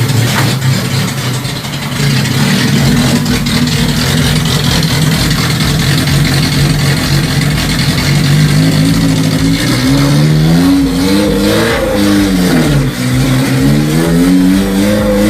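1990 Maruti Suzuki 1000 engine running at a raised, steady speed just after being started for the first time in seven or eight years. From about nine seconds in it is revved up and down several times.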